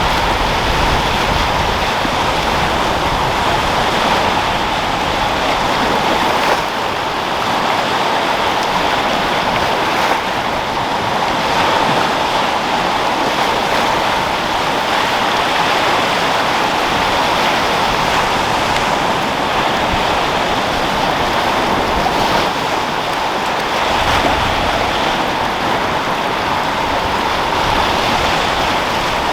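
Sea waves rolling and breaking with wind: a steady, unbroken rush of surf.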